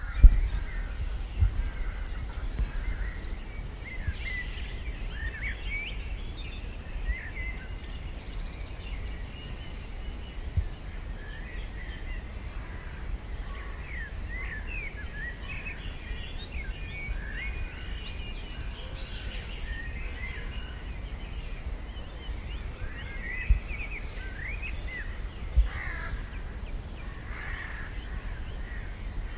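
Wild birds singing and chirping, many short calls throughout, over a steady low rumble. A few sharp low thumps come near the start and twice in the last third.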